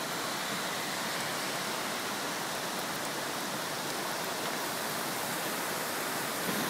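Torrential rain and rushing floodwater: a steady, even hiss and rush of water that does not change.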